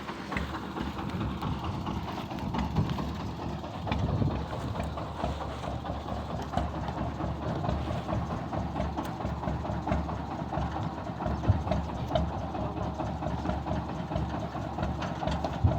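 A vehicle engine idling steadily, a low, even running sound.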